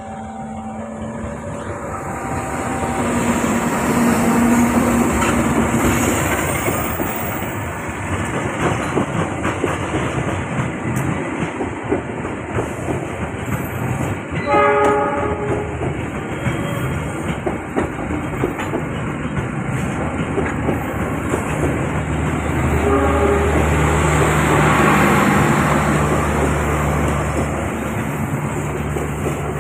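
A train passing close by, its wheels clattering rhythmically over the rail joints and junction points, with a short horn blast about halfway through. A low steady drone joins in over the last several seconds.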